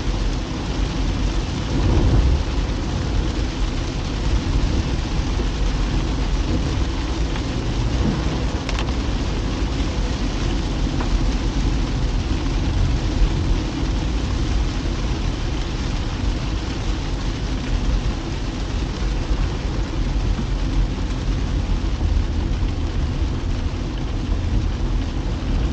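Car driving in the rain: a steady hiss of rain and wet road noise over a deep, constant rumble.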